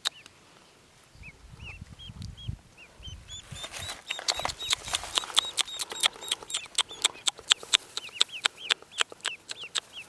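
Newly hatched ducklings peeping: a run of short, high cheeps and sharp clicks, sparse at first and growing much busier about three and a half seconds in.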